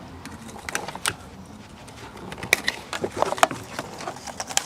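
Irregular light clicks and metallic clinks of small metal parts and hand tools being handled, busiest about halfway through.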